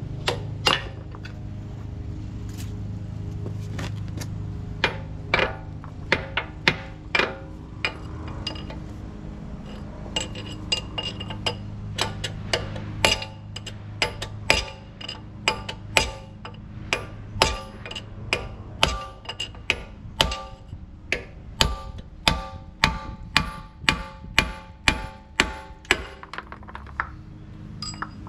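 Hammer striking steel: a long run of sharp, ringing metal-on-metal blows, sparse at first and then about one to two a second. A steady low hum runs underneath.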